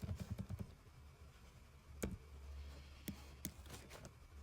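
Clicking of computer keys: a quick run of clicks at the start, then a few single clicks about two, three and three and a half seconds in, over a low steady hum.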